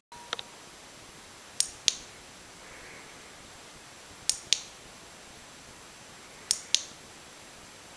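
Sharp clicks coming in pairs, the two clicks of each pair about a quarter second apart, repeating every two to three seconds over a faint steady hiss.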